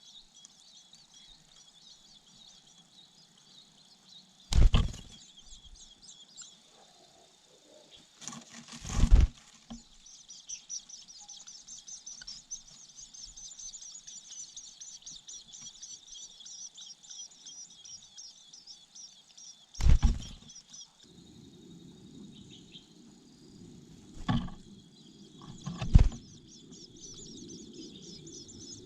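Long-tailed shrike nestlings begging with a rapid, high chirring that runs almost without a break. Five loud thumps cut across it, and from about two-thirds of the way in a low rustling rumble joins.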